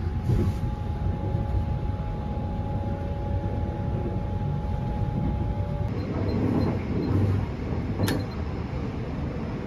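Sunrise Izumo 285 series sleeper train running, heard inside a compartment as a steady low rumble, with two faint steady tones that cut off about six seconds in. A single sharp click near the end.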